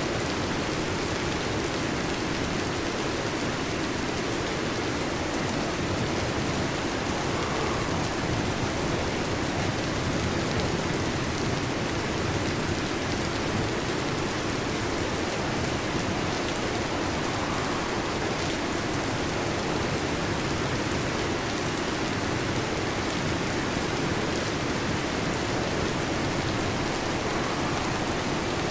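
Heavy rain falling steadily on a metal roof, an even, unbroken hiss of drops.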